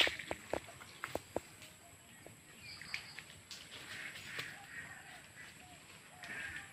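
Short, faint bird chirps scattered through the quiet outdoor air. A loud burst at the very start and a few sharp clicks over the next second and a half stand out above them.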